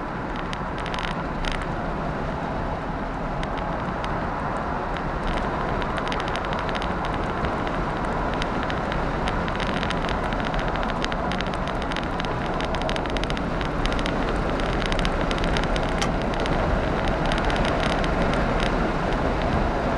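Jaguar V12 engine running steadily, slowly growing louder, with a fine rapid ticking over its hum.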